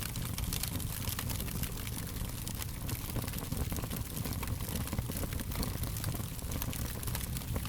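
Fire crackling: a steady low rumble of flames with frequent, irregular small sharp pops and snaps.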